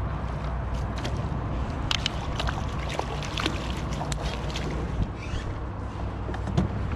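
Steady low wind rumble on the microphone, with scattered small clicks and knocks on a kayak.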